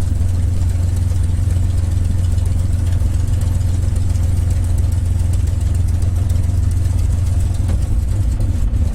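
North American P-51 Mustang's V-12 Merlin engine running steadily at low taxi power, a constant low drone.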